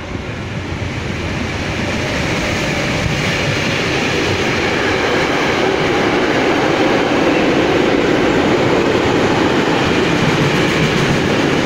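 InRail electric locomotive approaching on the track, its rumble and wheel-on-rail noise growing steadily louder for the first half and then holding loud as it draws close.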